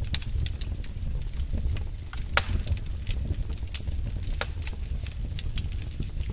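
Wood fire burning in a fireplace: a steady low rumble with scattered sharp crackles and pops, two of them louder, about two and a half and four and a half seconds in.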